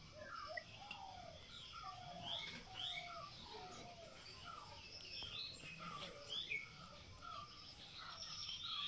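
Birds chirping: many short, overlapping calls.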